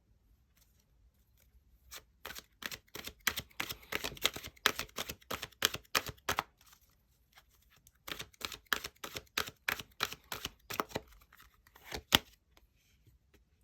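Tarot cards being shuffled by hand: two bouts of quick, crisp card clicks and slaps, each lasting about four seconds, with a short pause between.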